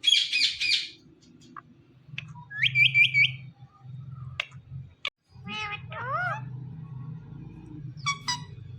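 Indian ringneck parrot squawking and whistling. A harsh screech opens it, a quick run of three rising whistled chirps follows a few seconds in, and more rising calls come past the middle and near the end, over a low steady hum.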